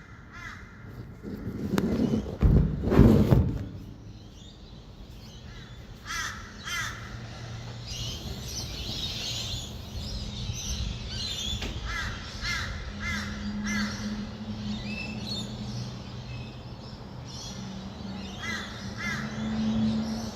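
Birds calling at dawn, with short calls repeated in sets of two to four and a higher chatter, over a steady low hum of distant traffic. A loud low rush comes about two to three seconds in.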